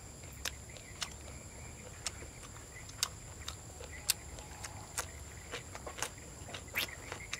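Mouth clicks and smacks of someone chewing grilled beef, roughly one a second, over a steady high-pitched drone of night insects.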